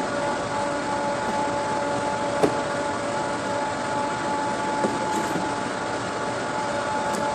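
Heat pump unit running with a steady hum holding two pitches over an even whir, with a sharp click about two and a half seconds in and a lighter click near five seconds.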